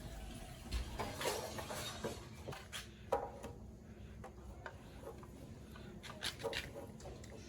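Scattered light knocks and clinks, as of objects being handled, with a few rubbing sounds. The sharpest click comes about three seconds in, and there is a small cluster of knocks near the end.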